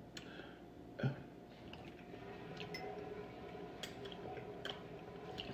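Quiet close-up chewing of a mouthful of food, with small wet mouth clicks and a soft knock about a second in, over a faint steady hum.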